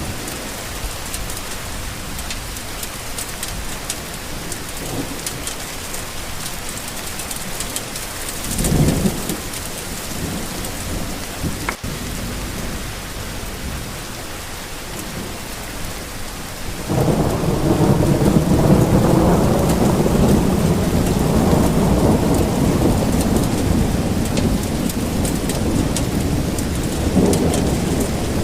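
Steady rain falling, with a short rumble of thunder about a third of the way in and a louder, long roll of thunder starting a little past halfway.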